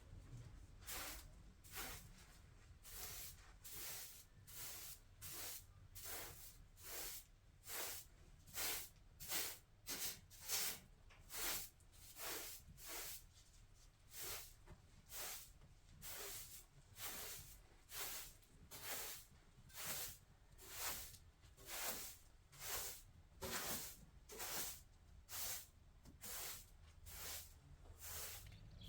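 Steady, rhythmic scraping or rasping strokes of a hand tool worked back and forth, about one and a half strokes a second.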